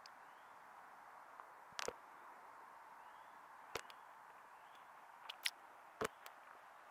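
Campfire crackling: a faint steady hiss broken by sharp wood pops, about five of them, the loudest near the end.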